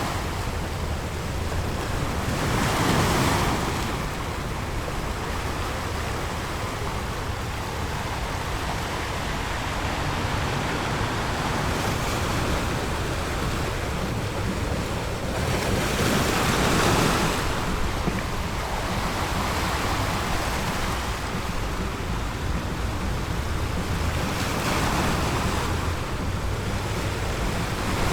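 Ocean surf breaking on a beach: a continuous wash of waves with louder breakers swelling about 3 seconds in, around 17 seconds and again near 25 seconds, with a low wind rumble beneath.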